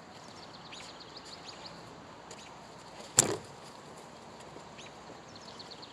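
Small birds chirping repeatedly in short, quick falling notes over a steady outdoor background, with one sharp, loud sudden sound just over three seconds in.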